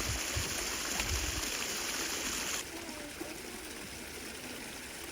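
Running water with a steady rushing hiss; about halfway through it cuts abruptly to quieter flowing water with faint distant voices.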